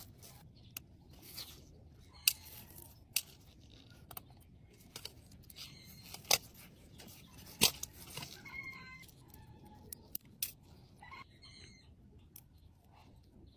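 Irregular sharp clicks and taps of small metal tools on watch parts, a dozen or so with uneven gaps, with a couple of short squeaks past the middle.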